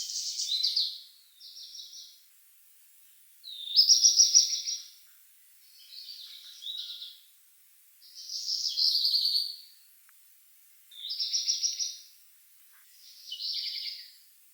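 A songbird singing in separate high phrases about a second long, each a fast run of repeated notes. The phrases come every two seconds or so with short silent gaps between them, some louder than others.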